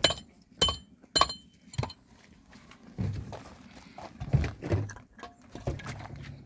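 Dishes clinking: four sharp ringing clinks about half a second apart, then duller knocks and shuffling handling sounds.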